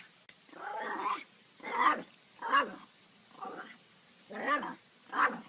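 A pet animal calling over and over: about six separate drawn-out calls less than a second apart, each rising and then falling in pitch.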